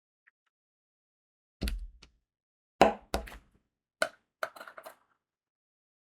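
Diamond-painting work sounds: several separate knocks and clicks as crystal drills and tools are handled on the table. The loudest, with a dull thud, comes about three seconds in, and a quick run of small clicks follows near the end.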